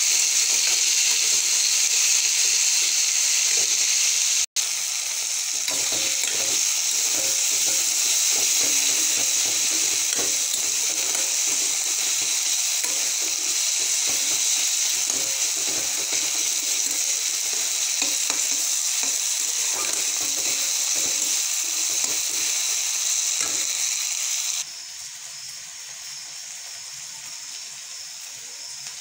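Chopped onions and tomatoes sizzling in hot oil in a steel kadhai, with a metal spatula stirring and scraping through them. Near the end the loud sizzle cuts off to a much quieter hiss.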